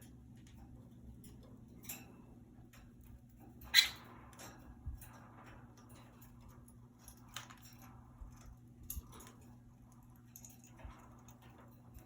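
Budgies moving about in a wire cage: scattered light clicks and scratches, with one sharper, louder click about four seconds in, over a steady low hum.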